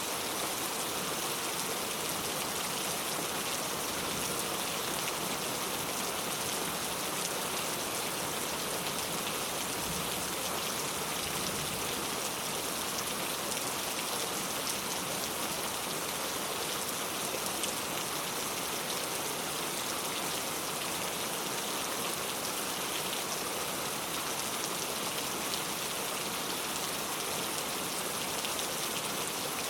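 Heavy rain falling steadily: an even hiss of many drops that does not let up.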